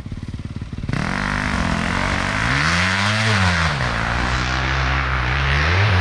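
Dirt bike engine running close by: rapid even firing pulses at first, then revving up about a second in, its pitch rising and falling as it accelerates and eases off, and rising again near the end.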